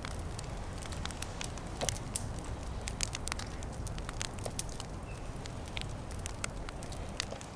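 Small wood campfire crackling, with irregular sharp pops and snaps over a steady low rumble.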